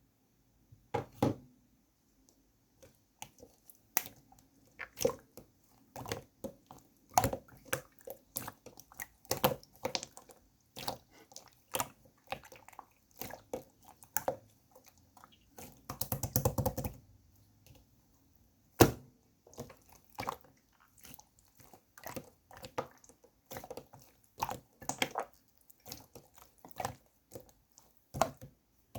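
Irregular light taps and clicks of small objects being handled, one to three a second, with a brief burst of rapid clicking about sixteen seconds in.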